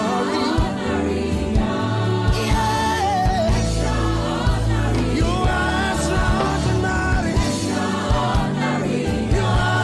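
Upbeat gospel music with a band: bass and drums keeping a steady beat under sung or choir vocals.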